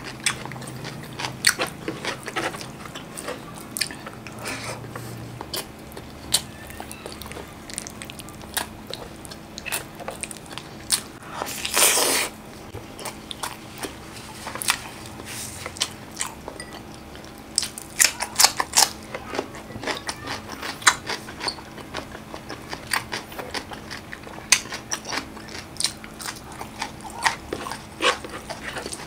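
Close-up mouth sounds of a person eating chicken in spicy tomato sauce with rice: chewing and wet smacking in many sharp clicks, with a longer, louder noise about twelve seconds in.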